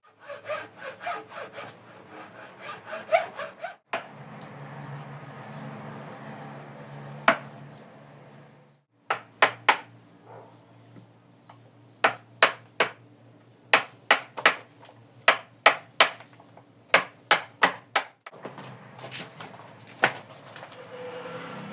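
Wood being worked by hand in short clips joined with abrupt cuts: quick rhythmic sawing or rasping strokes, a stretch of steady noise with a low hum, then a run of sharp knocks about one to two a second, and scraping strokes again near the end.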